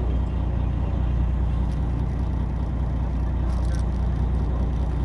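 A boat's engine running steadily, a continuous low hum under a wash of noise, with a brief faint clatter about three and a half seconds in.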